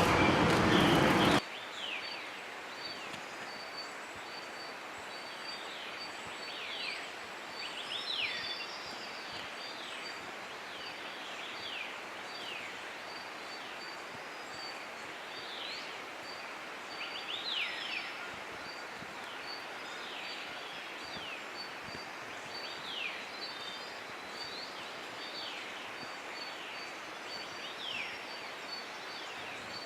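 Wild birds calling: many short, high, downward-slurred notes scattered throughout, over a steady run of rapidly repeated high ticking notes. A louder sound cuts off suddenly about a second and a half in.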